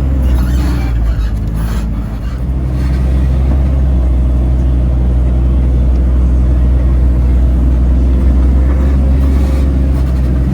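Off-road rig's engine running steadily at low revs while crawling a trail, a deep even drone heard from the passenger seat.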